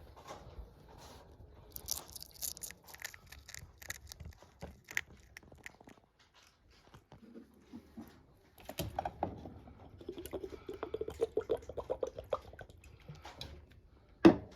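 A small pet chewing crunchy food: irregular crisp crunches and clicks, coming thicker in the second half, with one sharp knock near the end.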